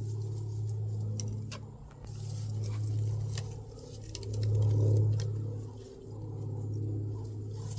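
A vehicle engine idling with a steady low hum that swells and dips every second or two, loudest about five seconds in, with scattered sharp clicks and snaps over it.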